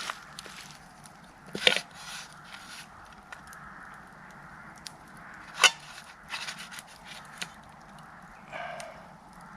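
Camp cooking gear and food being handled: two sharp knocks about four seconds apart, among lighter scrapes and clatter.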